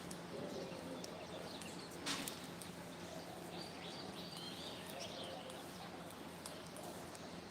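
Faint bird chirps and twitters over a steady low hum, with a short knock about two seconds in.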